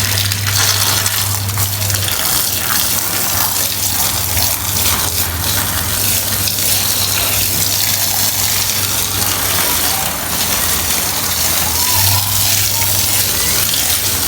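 Water gushing and splashing onto a soaked carpet during washing, over a steady low motor or pump hum. The hum eases about two seconds in and comes back strongly near the end.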